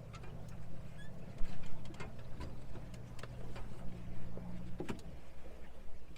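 Tour boat's motor running with a steady low hum that cuts off about five seconds in, with scattered light ticks and clicks over it.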